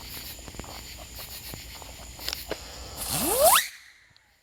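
Small firework going off with a loud rushing hiss and a whistle that rises sharply in pitch, about three seconds in, then stops abruptly. Before it, a steady hiss with scattered light crackles.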